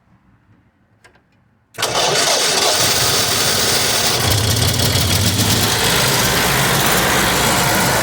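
Belt-drive RV generator's big V-twin engine starting up abruptly about two seconds in, then running steadily and loudly, with a low hum from the engine and belt-driven alternator head.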